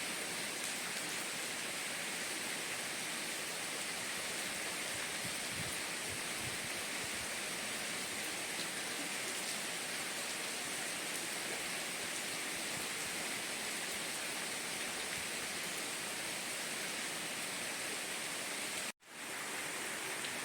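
Steady rain falling, an even hiss. Near the end it cuts out for an instant and swells back in.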